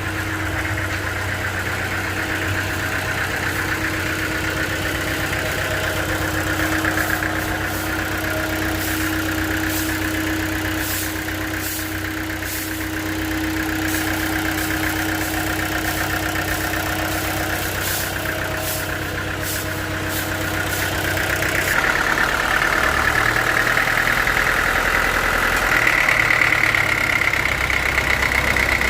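Band sawmill machinery running steadily with an engine-like hum. Scattered faint clicks come in the middle, and a higher note strengthens and rises slightly about two-thirds of the way through.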